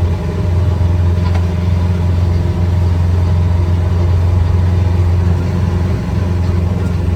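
Fishing boat's engine running steadily under way, a constant low drone.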